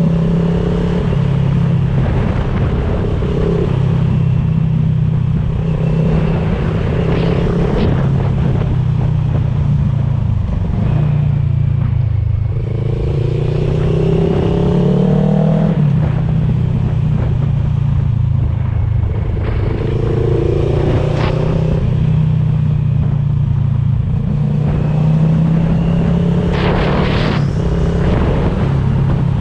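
CFMOTO 700CL-X motorcycle's parallel-twin engine running through an aftermarket IXRACE DC1 carbon exhaust while riding, the pitch rising under acceleration several times. A few short sharp sounds stand out over the engine note.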